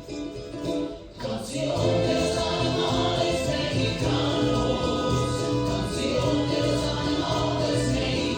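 Children's song: a group of voices singing over music, the backing growing fuller about two seconds in.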